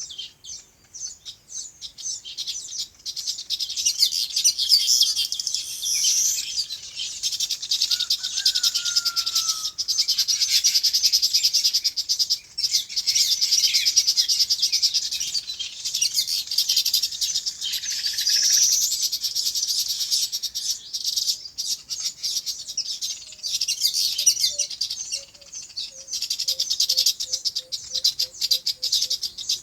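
A dense chorus of many small birds chirping and twittering without pause. About eight seconds in another bird gives a short falling whistle. Near the end a bird repeats a low note about a dozen times, two or three a second.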